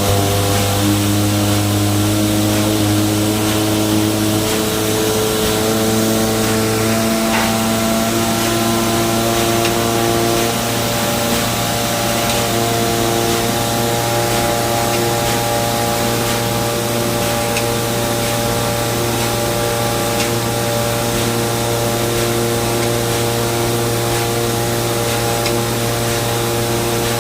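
Car engine running steadily with a continuous hiss and a held hum: the noise of a damaged timing belt.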